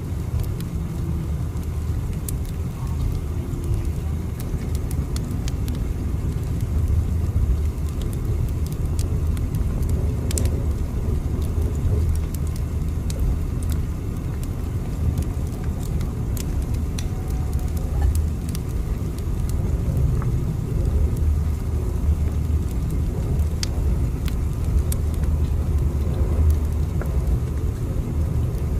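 Steady low rumble of a train running, with faint scattered clicks over it.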